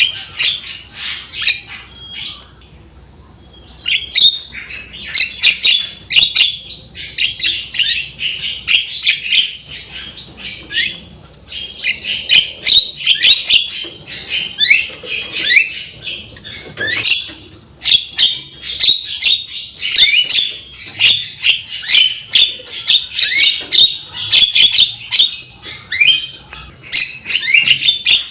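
Javan myna (jalak kebo) singing in full voice: a rapid, continuous stream of short chattering and whistled notes, with a brief lull about three seconds in.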